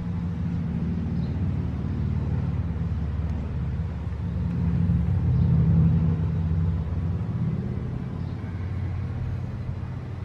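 2004 Dodge Ram 1500's 5.7-litre Hemi V8 engine running with a low, steady rumble, getting louder about halfway through and then easing back.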